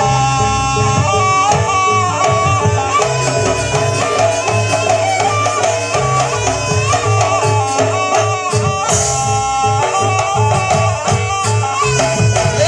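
Live jaranan buto accompaniment: a shrill, wavering reed-horn melody over busy drumming and sustained low gong tones.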